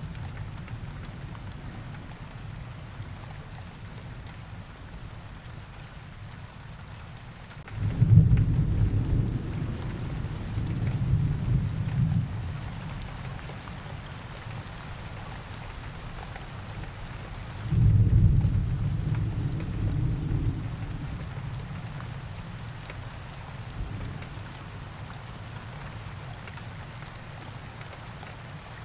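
Steady rain ambience with two low rolls of thunder, one about eight seconds in and another about eighteen seconds in, each rumbling for a few seconds.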